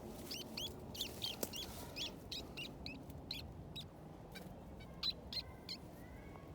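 Small wild birds chirping: a quick run of short, high chirps that thins out after about three and a half seconds, with a couple more about five seconds in.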